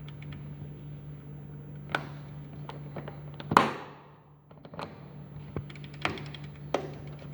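Pietroberto BlueMix 80 planetary dough mixer's electric drive giving a steady low hum, with scattered metallic clicks and a loud clunk about halfway through.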